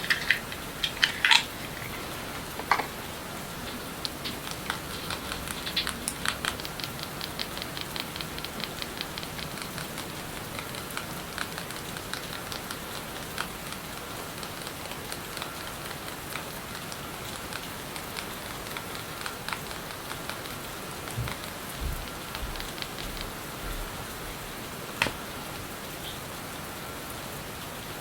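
Steady rain hiss as a background track, with small sharp clicks and taps on top: a few loud ones in the first seconds, a quick run of evenly spaced ticks a little later, some soft low thumps, and one more click near the end.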